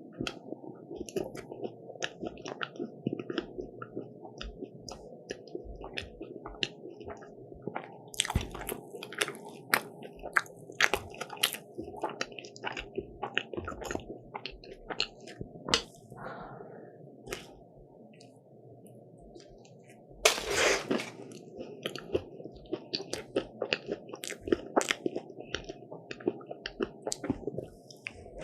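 Close-up chewing and biting of a crisp croffle (croissant waffle), with many quick crunchy crackles, a brief lull a little past the middle, and one louder, longer rustling crunch about two-thirds of the way through.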